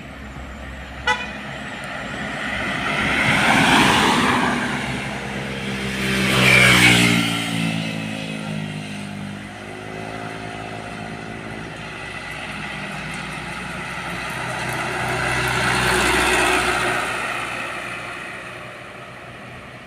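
Trucks driving past on a road, one after another, in three swells of loudness; during the second pass the engine's pitch falls as it goes by. A short sharp click about a second in.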